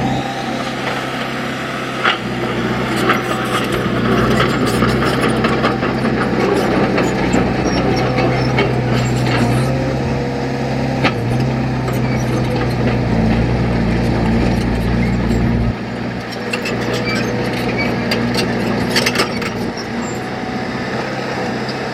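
Diesel engine of heavy earthmoving machinery running steadily, with scattered metallic clanks and knocks.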